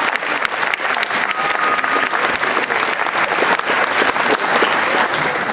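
Audience applauding after the song, dense clapping with a few voices in the crowd.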